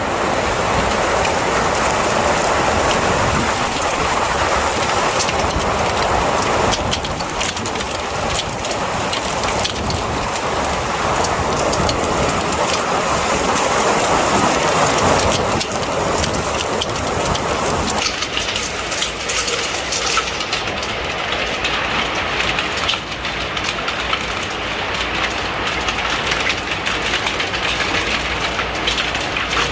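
Hailstones pelting window glass: a dense, continuous rattle of many small sharp knocks over a steady hiss, shifting in intensity a few times.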